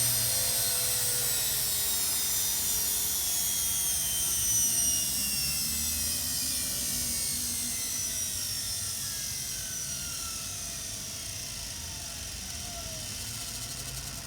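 Washing machine motor spinning down, its high whine falling steadily in pitch and fading as it slows.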